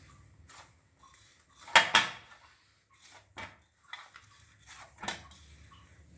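Kitchen utensils clattering: a loud double clack about two seconds in, then several lighter knocks and taps.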